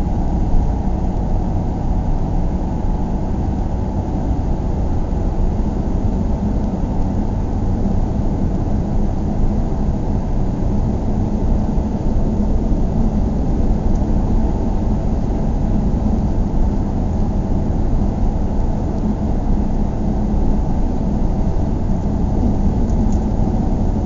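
Car driving at a steady pace, heard from inside the cabin: a constant low rumble of road and engine noise with a faint hum.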